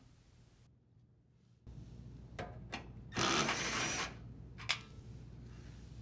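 Cordless drill driver running briefly, under a second, unthreading a toe-kick screw from a dishwasher, with a few sharp clicks of the tool and panel being handled around it.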